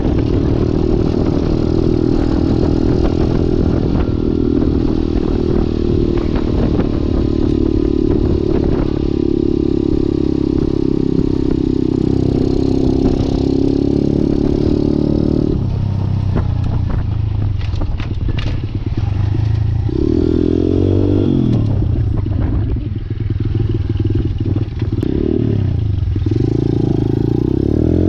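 Malcor XZ1 125cc pit bike's single-cylinder engine running at steady revs. About halfway through the revs drop, and near the end the engine is revved up and down several times.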